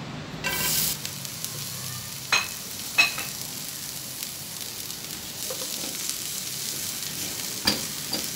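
Chopped onion and green capsicum sizzling in hot oil in a non-stick frying pan: the sizzle starts about half a second in as they drop in and runs on steadily while they are stirred with a silicone spatula. A few sharp knocks of utensils against the pan, the loudest about three seconds in.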